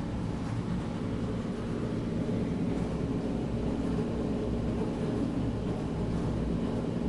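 Steady low engine rumble, growing slightly louder about two seconds in.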